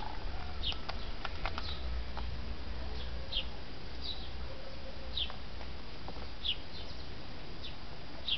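A small bird chirping repeatedly, short falling chirps about once a second, over a steady low rumble.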